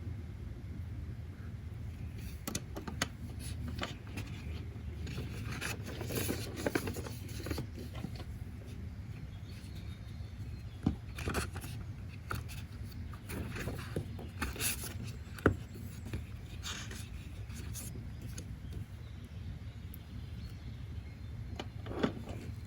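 Steady low background rumble, with scattered sharp clicks and short rustles over it.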